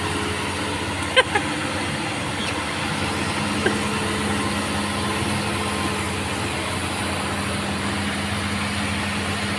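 Excavator's diesel engine running steadily, with two short clicks about a second in and another a couple of seconds later.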